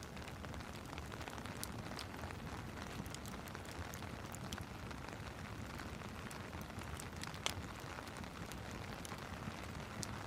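Steady rain mixed with a crackling wood fire: a constant hiss with scattered sharp pops, the loudest pop about seven and a half seconds in.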